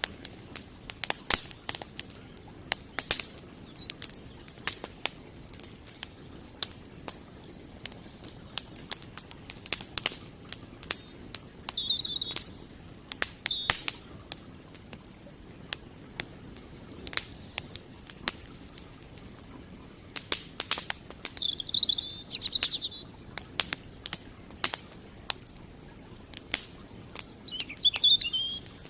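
Campfire crackling, with frequent sharp, irregular pops of burning firewood over a faint steady rush of creek water. A small bird chirps briefly a few times: about twelve seconds in, again around twenty-one seconds, and near the end.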